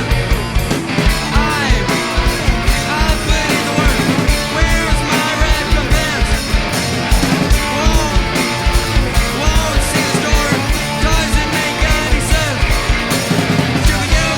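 A rock band with drums, electric guitars, bass and sung vocals playing live with a steady drum beat.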